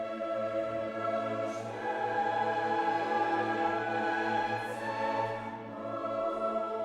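Classical choral and orchestral music: a choir holds long chords over the orchestra, swelling and shifting chord every few seconds.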